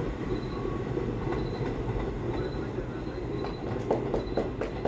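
R44 subway car train rumbling steadily on the rails as it pulls away, with a quick run of sharp wheel clacks near the end.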